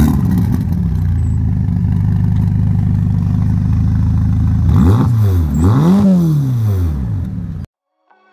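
Ferrari Portofino M's twin-turbo 3.9-litre V8 running at a steady high idle just after firing up, then revved twice in quick blips about five and six seconds in, before the sound cuts off suddenly.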